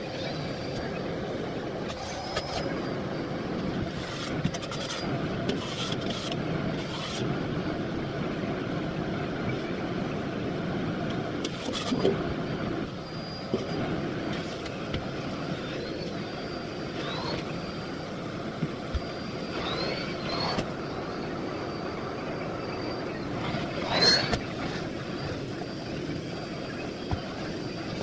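Miele Blizzard CX1 bagless cylinder vacuum cleaner running steadily as it cleans. Several knocks and a few short rising high whistles sound over it, the loudest knock about three-quarters of the way through.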